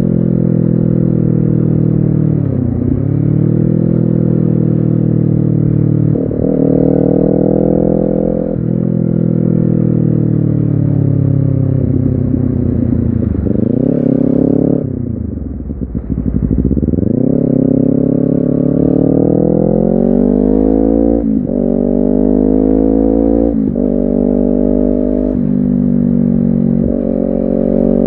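Honda CBR250RR parallel-twin engine and exhaust under way, revs climbing and falling through several gear changes. About halfway through, the revs drop low as the bike slows, then climb steadily again as it accelerates up through the gears.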